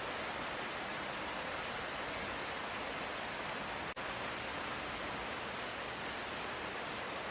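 Light rain falling steadily, an even hiss with no thunder, broken by a momentary dropout about four seconds in.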